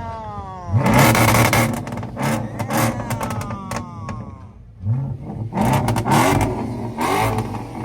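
A car engine revved in repeated blips, about four times, each rev climbing sharply and falling back to idle.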